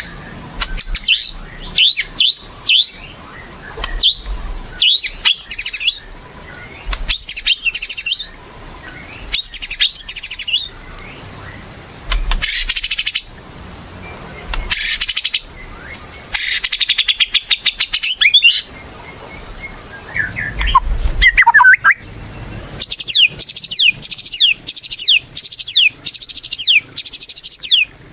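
White-rumped shama (murai batu) in full song: loud bursts of rapid, varied whistled phrases with short pauses between them, ending in a fast run of repeated descending notes.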